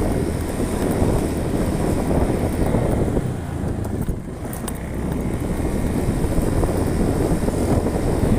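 Car driving along a road: steady engine and road rumble that eases briefly about four seconds in, then picks up again.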